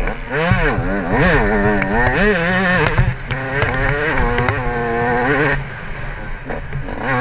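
Yamaha YZ125 two-stroke single-cylinder motocross engine revving hard under load, its pitch climbing and falling several times as the rider works the throttle and gears. It holds high revs for a few seconds, backs off about two thirds of the way through, then picks up again near the end.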